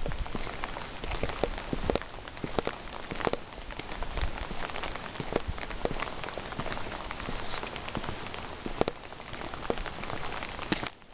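Steady rain falling on hard surfaces, with many separate drops and drips clicking over the hiss. The sound dips briefly near the end.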